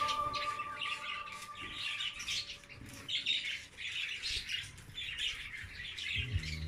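A flock of budgerigars chattering and chirping: many short, overlapping high chirps and squawks.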